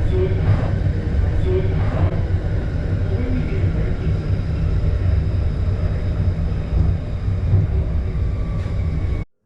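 Steady rumble of a Sydney Trains red set electric train under way, heard from inside the driver's cab: running gear and wheels on the rails. The sound cuts off abruptly near the end.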